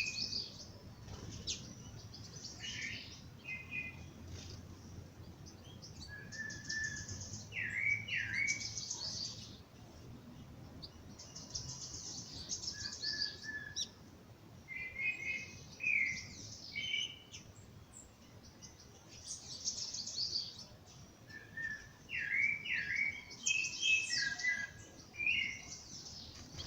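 Songbirds singing at dawn: bouts of quick high chirps and short trilled phrases, repeated every few seconds with brief pauses between.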